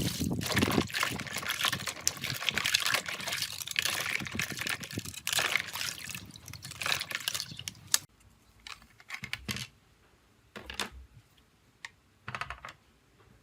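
Water running and splashing for several seconds, then stopping abruptly, followed by a few small taps and clicks.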